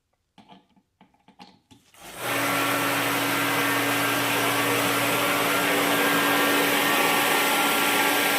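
Reddy Heater Pro 150 forced-air heater starting about two seconds in: its fan motor spins up and runs with a steady rush of air and a hum. It runs without lighting: the igniter sparks but no fuel reaches the nozzle.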